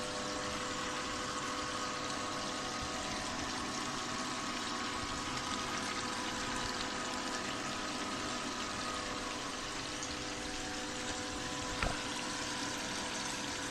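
Water from a spray bar rushing steadily through a small 6-inch sluice box, with a steady hum underneath. A single sharp click comes near the end.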